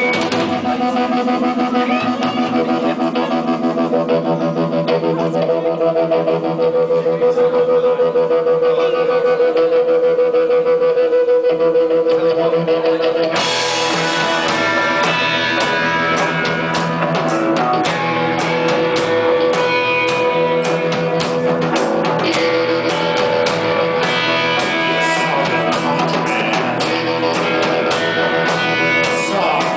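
Live rock band playing a song, guitar over a long held note at first; about thirteen seconds in the drums and cymbals come in and the sound fills out.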